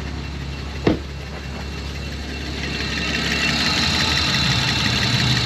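Car engine idling steadily, with one sharp knock about a second in. From about three seconds a high hiss and whine grow slowly louder over the idle.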